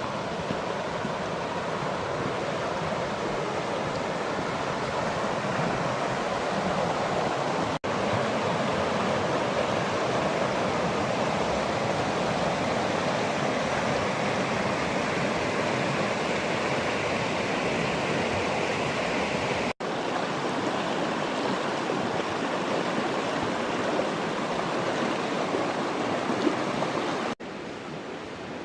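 Steady rushing of a flowing stream, even and unbroken apart from two momentary cut-outs, about 8 and 20 seconds in.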